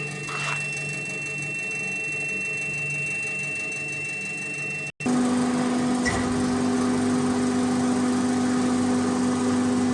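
18.5 kW (25 HP) fixed-speed screw air compressor running with a steady machine hum and a constant high whine. Just before halfway the sound breaks off for an instant, then the hum comes back louder, with a strong low drone.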